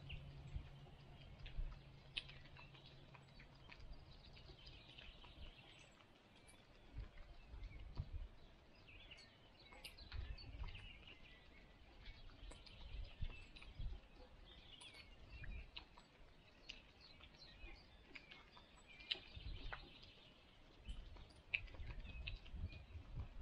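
Faint wild birds chirping here and there, over intermittent low rumbling. A steady low hum runs underneath and stops about six seconds in.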